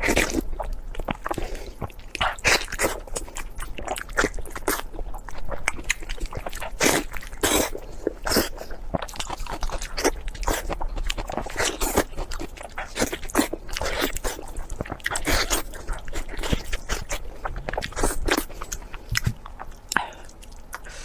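Close-miked crunchy biting and chewing, many irregular sharp crunches, of beef knee-bone cartilage.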